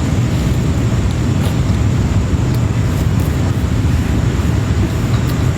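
Steady low rumbling noise that does not change.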